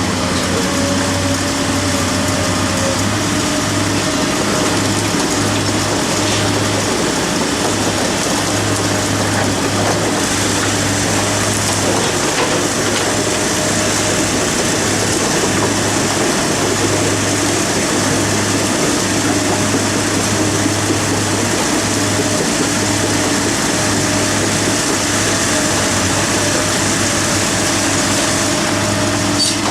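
A heavy construction machine's engine running steadily under load, with a steady hum and mechanical noise and no sharp impacts.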